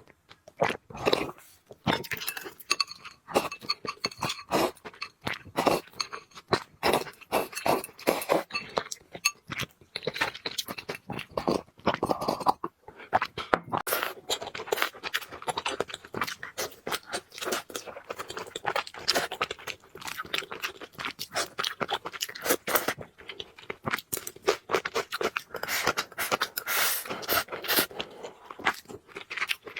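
Close-miked chewing and crunching of food, a rapid, continuous run of small clicks and crunches.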